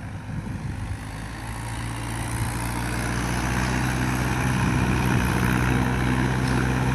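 Mahindra 585 tractor's diesel engine running steadily, getting louder over the first few seconds as it picks up revs or load.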